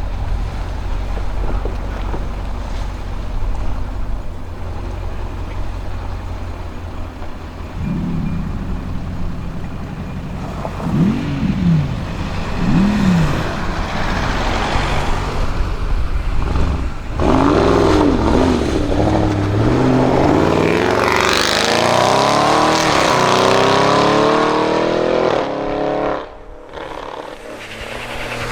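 Audi RS6 Avant C7's twin-turbo V8 through a Milltek exhaust. It starts as a low rumble, then gives a few short rev blips. About two thirds of the way in comes a long hard acceleration with the pitch climbing for several seconds, and the sound drops away suddenly near the end.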